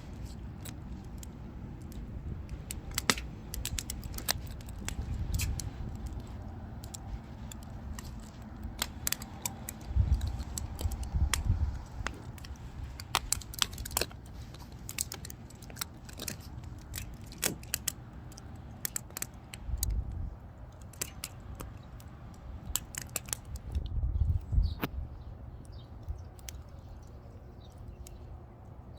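Wood fire burning, crackling and popping with irregular sharp snaps, over a few low rumbles that come and go.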